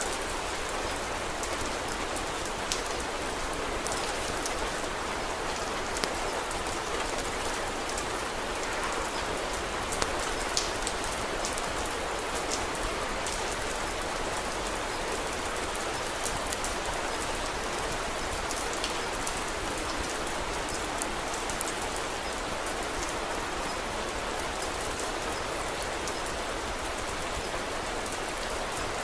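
Steady rain with scattered sharp crackles from a wood fire.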